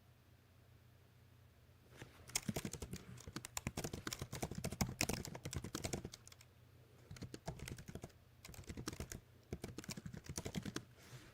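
Typing on a computer keyboard: a long fast run of keystrokes starting about two seconds in, then three shorter bursts with brief pauses between.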